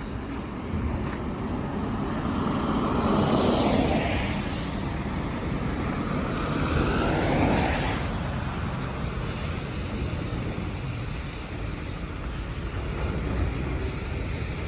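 A vehicle going past, its noise swelling and sweeping up and down over several seconds before fading, over a steady low rumble.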